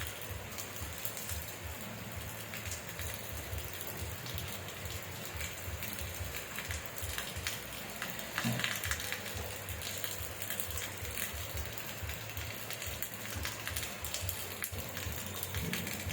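Rain falling steadily, with a dense patter of individual drops ticking on a surface. There is a louder thump about halfway through.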